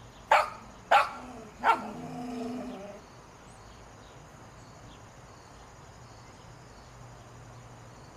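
A dog barking three sharp times in about a second and a half, followed by a softer, longer sound.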